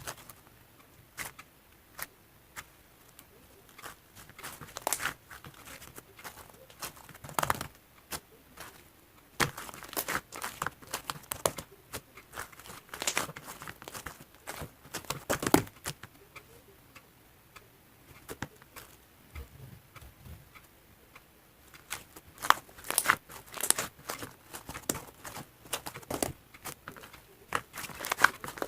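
Slime mixed with kohakutou crystal-candy pieces being handled: irregular crunching and crackling clicks, with a couple of quieter pauses.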